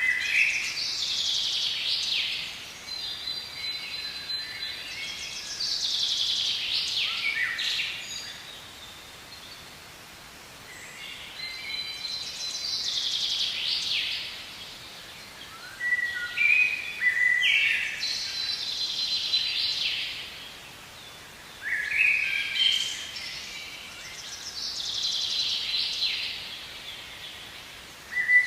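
A songbird singing the same phrase over and over, about every six seconds: a few short stepped notes, then a long fast trill that falls away at the end.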